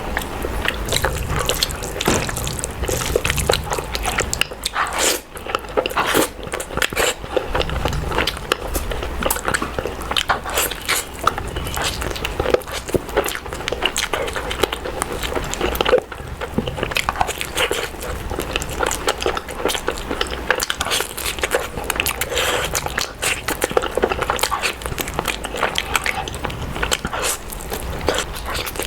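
Close-miked eating sounds of fried chicken legs and chow mein: continuous biting and chewing, with many small irregular crunches and mouth clicks.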